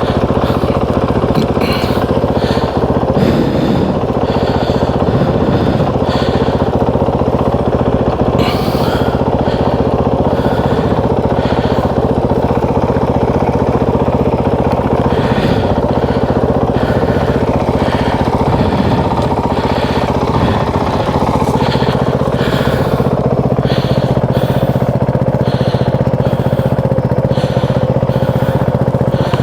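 Motorcycle engine idling steadily after a restart, with scattered light knocks and clicks over it.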